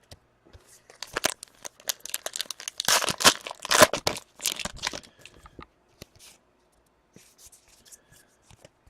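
A foil hockey card pack being torn open and its wrapper crinkled. The tearing and rustling is loudest a few seconds in, then dies down to a few faint clicks.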